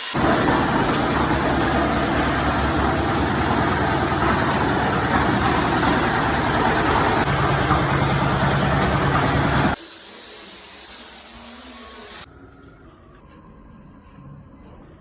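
Concrete mixer machine running, a loud steady mechanical noise from its motor and turning drum. It cuts off abruptly about ten seconds in and leaves a much quieter background, with one short sharp sound about two seconds later.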